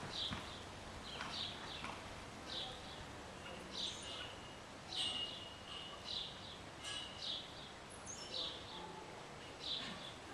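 Small birds chirping: short high calls repeating about once a second, with a couple of longer held notes around the middle.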